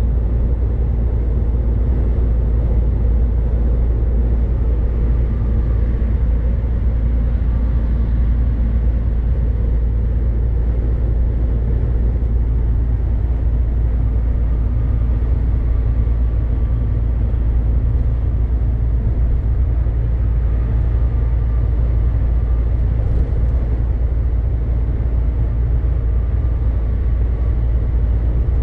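MAN truck driving at steady motorway speed: an unbroken low rumble of engine and tyres on the road.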